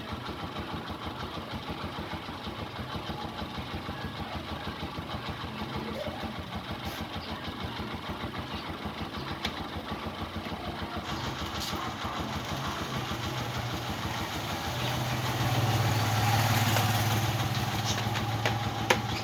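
Honda TMX 125 motorcycle's single-cylinder engine idling with a steady, even beat, growing a little louder about fifteen seconds in.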